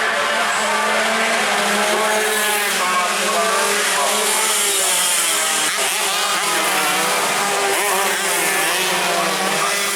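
Several tuned two-stroke racing motorcycles running at high revs together, their engine notes overlapping and rising and falling in pitch as they race past.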